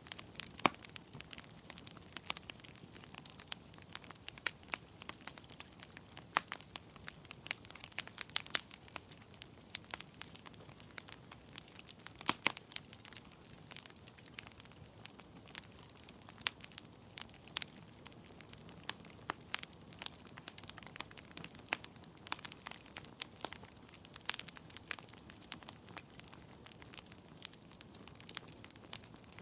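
Wood fire in a fireplace: burning logs crackling and popping with many sharp, irregular snaps over a faint low hiss of the flames.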